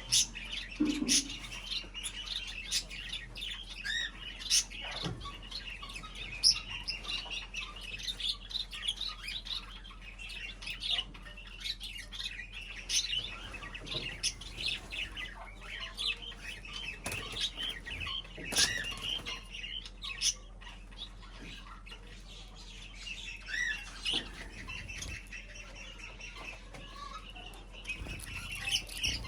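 A group of small pet birds chirping busily and without pause, with frequent sharp clicks mixed in.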